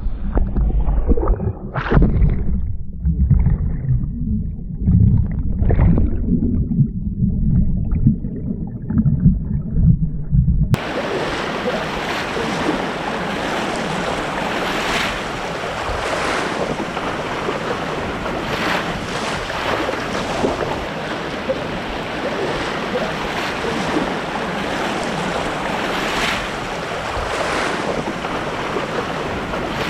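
Low, gusty rumble of wind buffeting the microphone. About eleven seconds in it cuts suddenly to the steady rush of white water from the river's rapids or waterfall, close to the microphone.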